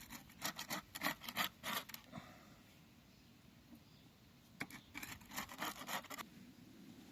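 Set gypsum-plaster bricks being worked out of a flexible silicone mould: two bouts of quick rubbing and scraping strokes, the second starting about halfway through.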